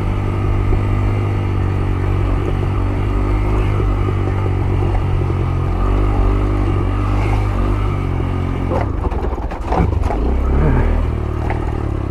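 Yamaha YBR 125G motorcycle's single-cylinder four-stroke engine running at low revs on a rough off-road track, the engine note rising and falling gently. About nine seconds in comes a short burst of clattering knocks as the bike jolts over rough ground.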